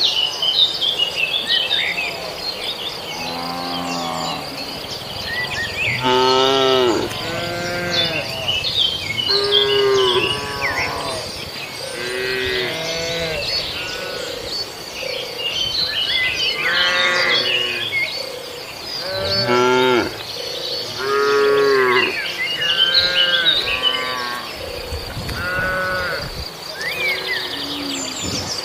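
Cattle mooing over and over, one drawn-out call after another every second or two, with a steady high insect drone and bird chirps behind.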